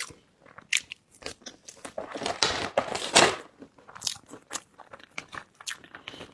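Close-miked mouth sounds of eating: biting and chewing, with wet smacking and short crisp clicks, busiest a couple of seconds in.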